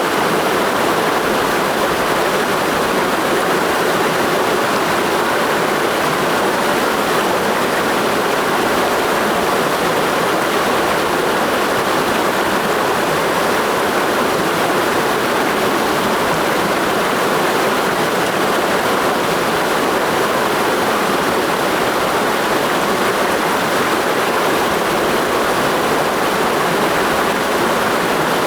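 Clear mountain stream in a gorge flowing steadily: a constant, even rush of water with no other sounds standing out.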